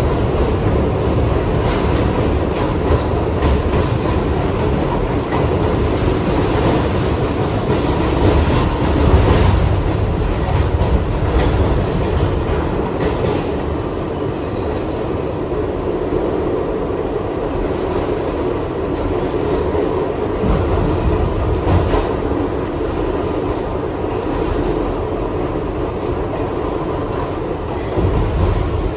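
Kawasaki R62 subway train running at speed, with a steady low rumble and scattered clicks from the wheels over the rail joints.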